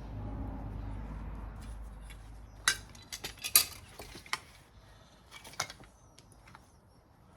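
Hand tools and metal engine parts being handled during engine strip-down: a low rumble of handling noise, then a run of sharp metallic clinks and knocks, the loudest about three and a half seconds in.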